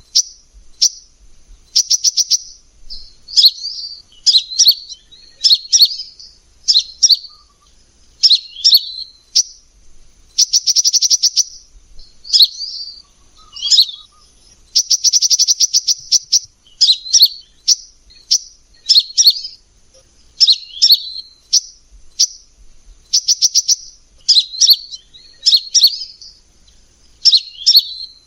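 Kolibri ninja (a sunbird) singing: short, high twittering phrases about once a second, broken three times by a longer rapid trill.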